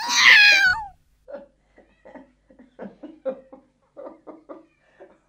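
A domestic cat meows once, loud and drawn out for about a second, the call falling in pitch at its end.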